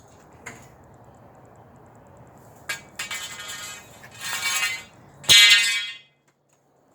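A couple of light clicks, then three harsh, squealing scrapes, each under a second long and the last the loudest, as the awning's pipes and tarp are taken down. The sound cuts out completely near the end.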